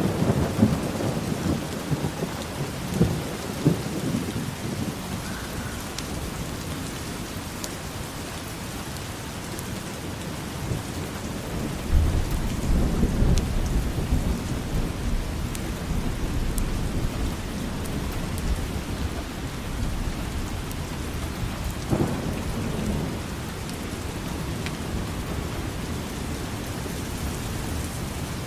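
Steady rain with rumbles of thunder: one rolling away over the first few seconds, another breaking in sharply about twelve seconds in, and a shorter one a little after twenty seconds.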